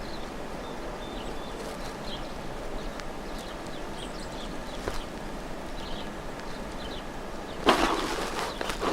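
Small songbirds at a feeder giving scattered short, high chip notes over a steady outdoor background hiss. Near the end a louder rushing noise starts and runs on.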